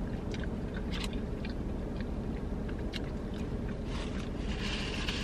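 Close-up chewing of sauced fried chicken: scattered soft wet mouth clicks and crackles over a steady low hum.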